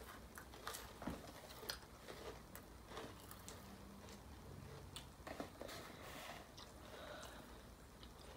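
Faint chewing and small scattered mouth clicks: people quietly eating pieces of soft chocolate candy.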